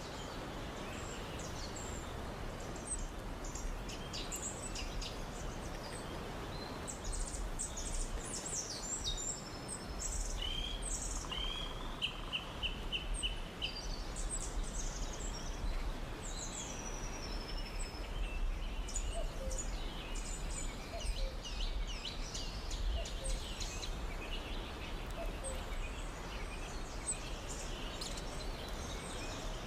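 Several birds calling and chirping over a steady low rumble. Among them, near the middle, is a quick series of about six whistled notes, the rippling call of a Eurasian whimbrel.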